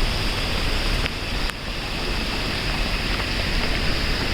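Steady rushing noise of wind and heavy rain, with wind buffeting the microphone as a low rumble.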